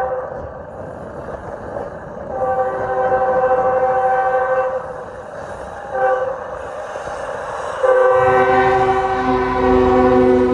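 Union Pacific diesel locomotive air horn sounding a grade-crossing sequence: the end of one blast, a long blast, a short one about six seconds in, then a long blast from about eight seconds that a lower note joins. Low rumble from the train and gusty wind on the microphone sit underneath.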